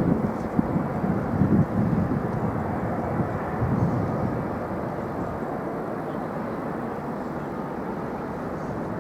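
Jet airliner noise heard from the airport perimeter, a steady rushing sound, uneven and gusty at the low end for the first few seconds and then evening out.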